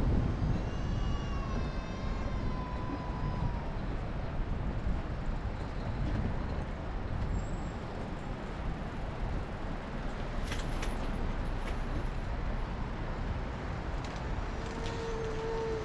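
Steady road traffic noise around a moving bicycle in city streets. A pitched, wavering squeal lasts a few seconds near the start, and another steady tone comes in near the end.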